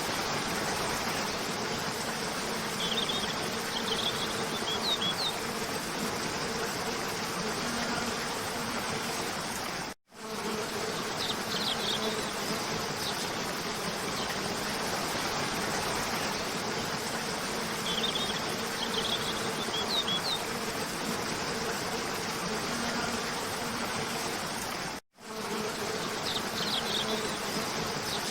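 Steady rush of a waterfall, with short high bird chirps in small clusters every several seconds. The sound drops out for an instant twice, where a looped recording restarts.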